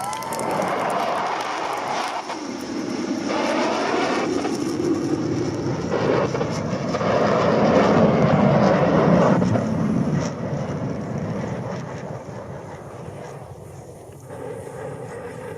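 Aircraft flying past, its engine roar building to a peak about eight seconds in and then fading away.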